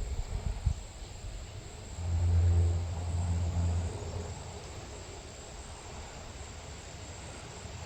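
A low engine hum, like a motor vehicle passing, that swells about two seconds in and fades out after about two seconds, over a faint steady outdoor background.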